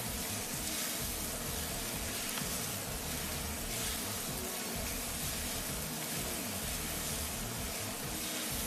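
Beef and flat rice noodles sizzling steadily in the rotating drum of an automatic stir-fry wok, a constant hiss over a low hum.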